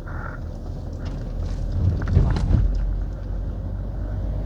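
Steady low rumble of a moving vehicle, with a few light knocks and a louder swell about two seconds in.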